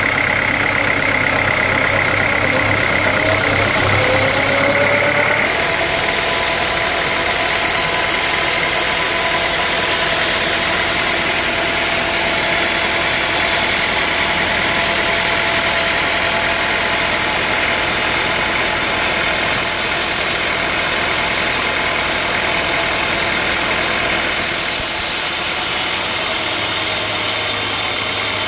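Sawmill machinery running steadily. A tone slides upward about four seconds in, and the sound shifts about five and a half seconds in.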